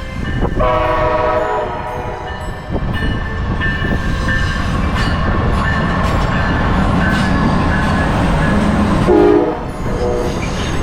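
A train passes sounding its locomotive air horn: a chord blast starting about half a second in and lasting about two seconds, then steady rumbling and clatter of the train. A second short horn toot comes near the end.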